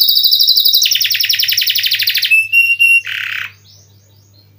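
Domestic canary singing a rolling song: a fast high trill shifts to a lower, fuller trill, then three short clear notes and a brief buzzy note, after which the song stops about three and a half seconds in.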